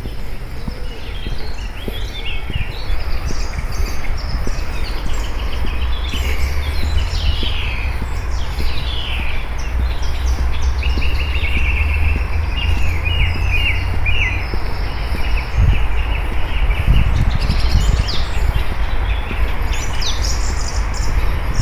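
Songbirds chirping and trilling over and over, several calls overlapping, with a steady low rumble underneath.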